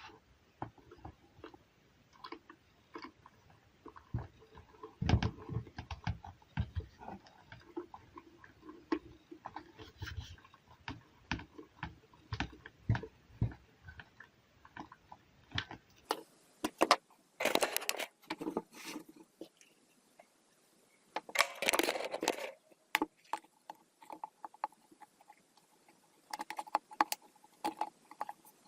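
Handling noise: irregular clicks, taps and light knocks of objects being moved about, with two longer, louder scraping or rustling noises in the second half.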